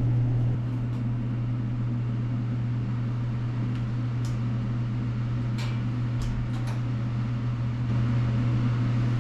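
A fan motor running with a steady low hum, with a few light clicks between about four and seven seconds in.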